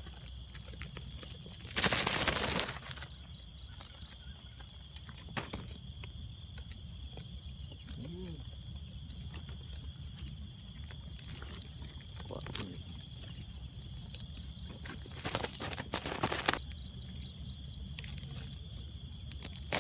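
Insects chirring steadily in a fast, even pulse, with two short bursts of rustling noise about two seconds in and again near sixteen seconds.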